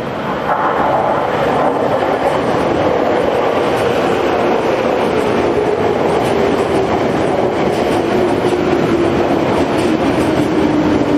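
JR Yamanote Line 205 series electric train running and slowing down. Its motor and gear whine falls steadily in pitch over the rumble of the wheels on the rails, getting louder about half a second in.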